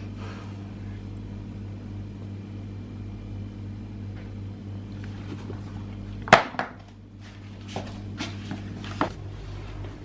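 Steady low hum with a few sharp knocks and clatters of things being handled; the loudest knock comes about six seconds in, with smaller ones near the end.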